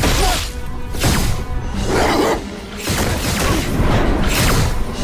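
Animated-action sound effects over a film score: several loud whooshes and crashing impacts, roughly one a second.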